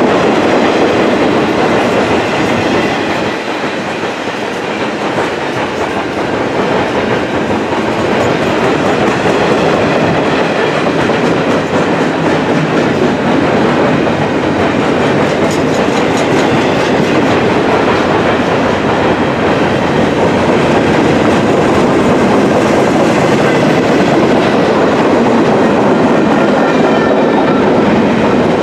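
Freight train of empty double-stack intermodal well cars rolling past close by: a steady, loud rumble and clatter of steel wheels on the rails, dipping slightly in loudness about four seconds in.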